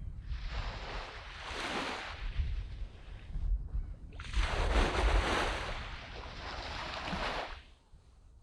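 Sea waves washing up on a sand beach: two waves, each swelling and then fading away over two to three seconds, with a low rumble of wind on the microphone underneath.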